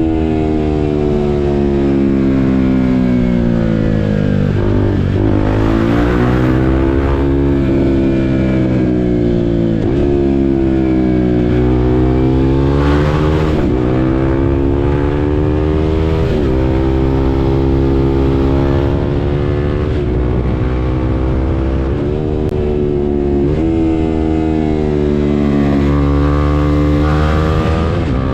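KTM RC 390's single-cylinder engine under a rider's throttle. Its pitch climbs and falls again and again, dropping sharply several times, as at gear changes or throttle lifts, before climbing again.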